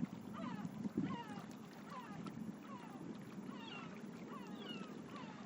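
Gulls calling: repeated mewing calls, each falling in pitch, about two a second, over a low steady rumble.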